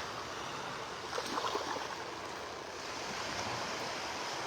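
Small surf washing on a Gulf of Mexico beach: a steady, even wash of water noise, with a few faint ticks a little over a second in.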